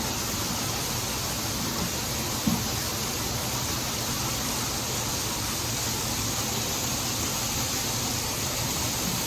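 Pig feed pouring into an empty feeder: a steady rushing noise, with one small knock about two and a half seconds in.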